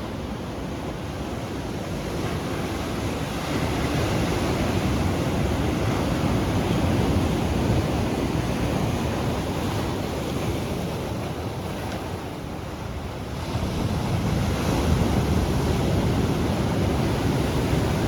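Ocean surf washing onto a beach, with the wash swelling louder about three seconds in and again about thirteen seconds in, and wind buffeting the microphone.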